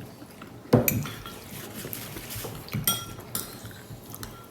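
Cutlery clinking against dishes during a meal: a few separate sharp clinks with a short metallic ring, the loudest about three-quarters of a second in.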